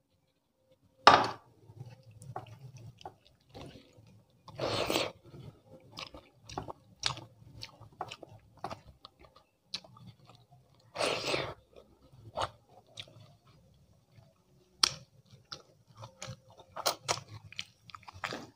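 Close-miked chewing of dal and rice eaten by hand, with crunchy bites and sharp wet mouth clicks. A few louder, longer crunches stand out, about one, five and eleven seconds in.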